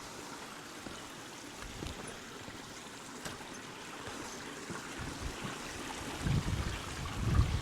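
Mountain stream running with a steady rush of water. From about six seconds in, low gusts of wind buffet the microphone.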